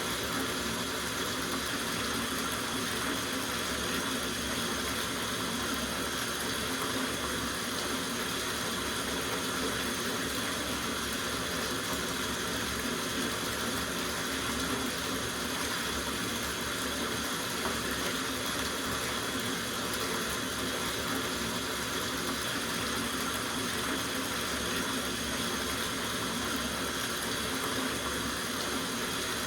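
Tap water running steadily into a soaking bathtub, an even, unbroken rush.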